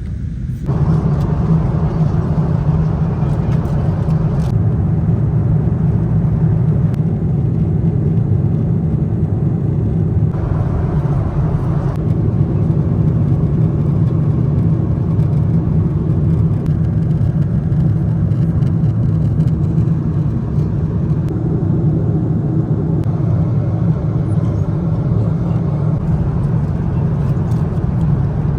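Steady low rumble of a vehicle in motion, rising slightly about a second in and then holding even.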